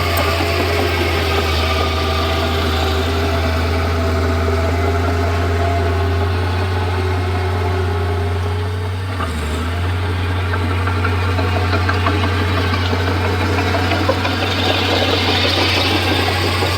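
Komatsu D31P bulldozer's diesel engine running steadily under work, with a brief dip about nine seconds in before it picks up again.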